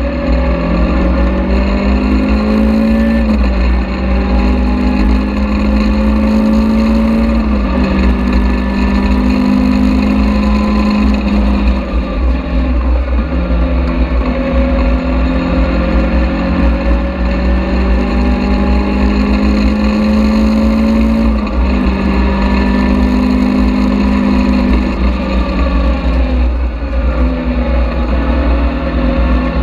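Caterham Seven's engine on track, heard from the open cockpit. Its pitch climbs under acceleration and drops sharply at each gear change, several times over. A heavy, steady low rumble of wind and road noise runs underneath.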